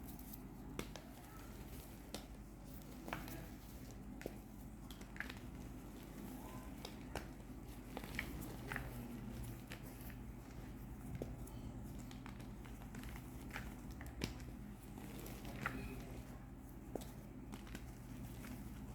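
Reformed gym chalk bars being crushed: scattered crisp crunches and crackles at an irregular pace, roughly one a second, over a steady low hum.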